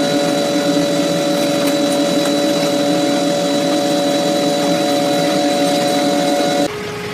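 Machine tool running steadily under power, a constant mechanical hum with several fixed tones over noise. About six and a half seconds in it switches abruptly to a quieter, lower hum.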